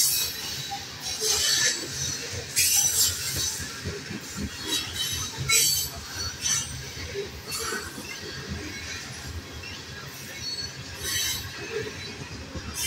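Freight train of covered hopper grain cars rolling past at close range. Wheels rumble steadily on the rail, with several brief high-pitched squeals from the wheels scattered through the passing.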